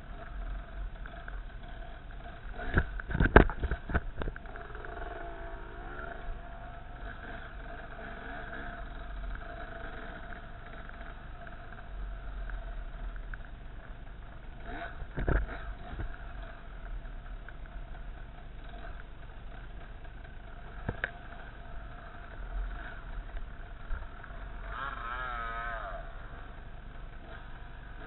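Off-road dirt bike engine running steadily as the bike is ridden along a rough forest trail, with loud knocks about three seconds in and smaller ones around fifteen and twenty-one seconds. The pitch wavers briefly near the end.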